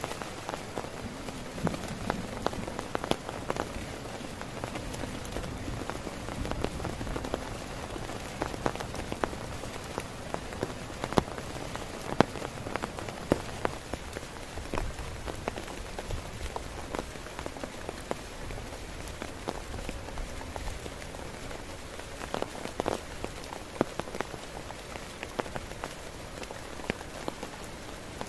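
Heavy rain falling on a tent, a steady dense patter with many louder single drops striking the fabric.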